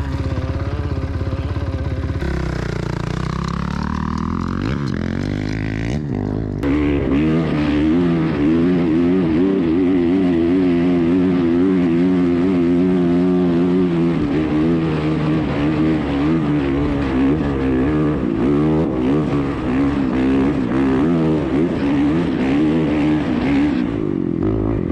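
Dirt bike engine running under load, its pitch rising and falling with the throttle. The sound changes abruptly about two seconds in and again about six and a half seconds in.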